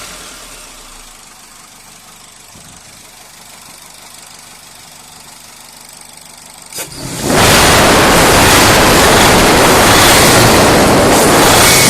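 Daihatsu K3-VE 1.3-litre four-cylinder engine, filmed for a knock: it drops back to a quiet idle, then after a click about seven seconds in a loud, steady noise takes over.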